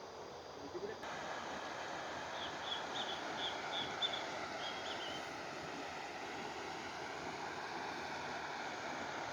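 River water rushing steadily. Between about two and five seconds in, a bird gives a quick series of about eight short, high chirps.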